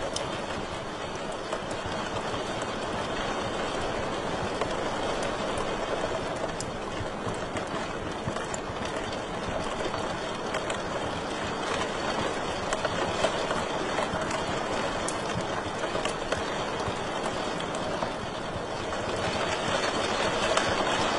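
Wood fire burning in a fireplace: a steady hiss of flames with scattered sharp crackles and pops.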